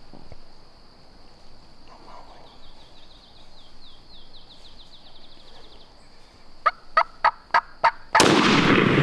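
Wild turkey calling close by, a row of about six sharp notes roughly a third of a second apart, over a steady high insect drone and a fast bird trill. About eight seconds in, a sudden loud blast cuts in and carries on.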